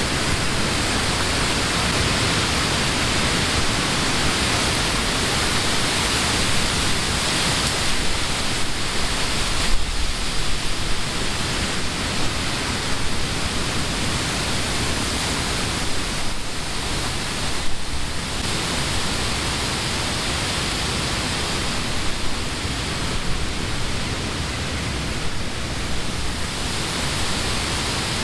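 Wind blowing through the leaves of trees: a steady rushing hiss that swells in gusts, the strongest about a third of the way in and again a little past halfway.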